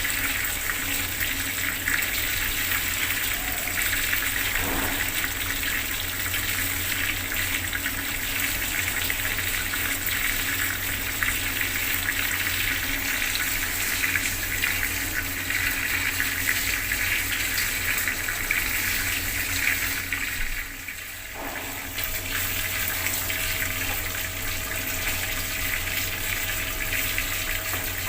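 Bathroom water tap running full, a steady rushing splash of water. It dips briefly about twenty seconds in, then carries on with a faint steady hum under it.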